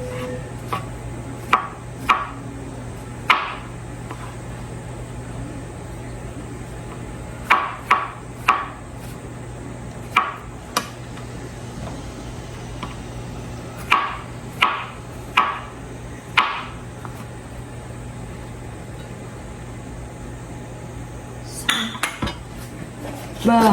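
Kitchen knife cutting button mushrooms into large pieces on a cutting board: sharp knocks of the blade hitting the board, one at a time or in quick pairs and threes with pauses between, over a steady low hum.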